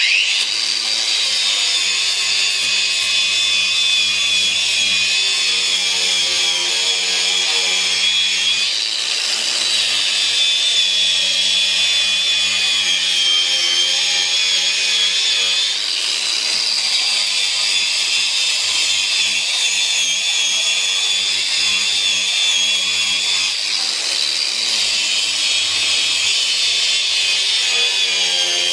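Cordless 4½-inch angle grinder running an abrasive strip disc against a surface to strip paint and rust: a steady high whine whose pitch dips briefly and recovers a few times as the disc is pressed in and eased off.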